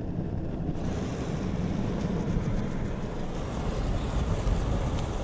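Road and wind noise inside a moving car: a steady low rumble, joined about a second in by a higher hiss with faint scattered ticks.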